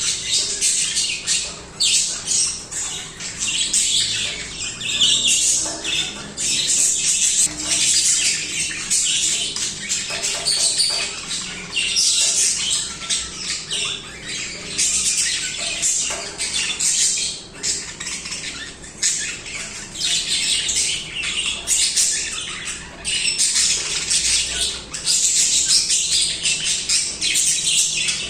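Budgerigars warbling and chirping continuously, a steady dense chatter of quick chirps, clicks and squawks.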